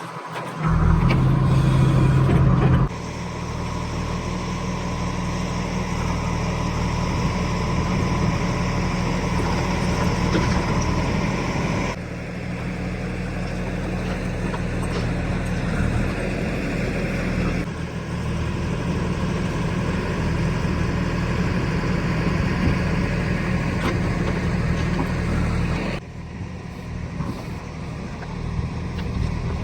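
Heavy diesel engine of a JCB 3DX backhoe loader running steadily at work, its sound changing abruptly several times.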